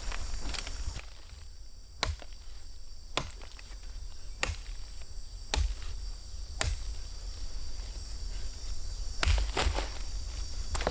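Sharp strikes, like a blade or hand tool chopping or digging, about once a second, over a steady chorus of insects.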